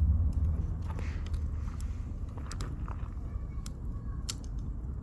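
Campfire of burning firewood crackling, with scattered sharp pops at irregular intervals over a steady low rumble.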